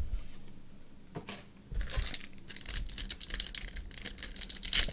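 Crinkling and rustling of a foil trading-card pack wrapper being handled and opened, starting about two seconds in and growing busier, with a light click shortly before.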